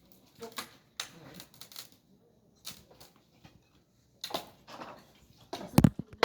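Scattered knocks and clatter of wooden bed pieces being pulled apart and handled, with a heavy thud near the end.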